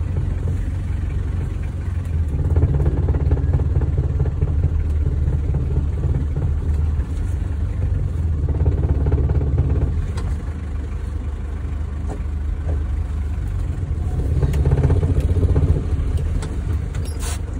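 Hindustan Ambassador car running, its engine rumble swelling louder three times, as if pulling away and accelerating through the gears.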